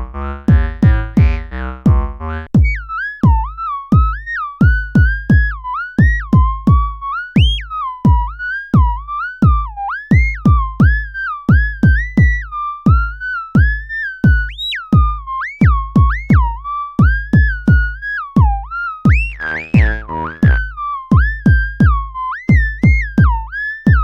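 Electronic synthesizer music: a drum-machine kick pulses evenly under a single synth lead line that slides in pitch from note to note. A busier pattern of stacked notes plays for the first couple of seconds and returns briefly a little past the middle.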